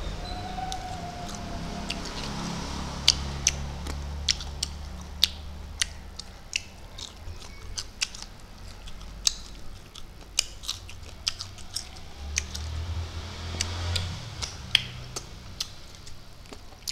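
Close-up eating sounds of a man chewing fried prawns: many sharp, irregular crunching clicks and mouth smacks, several a second.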